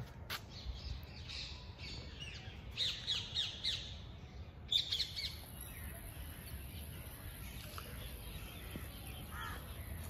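Birds calling: a run of short calls about three seconds in and another cluster near five seconds, over a steady low background hum.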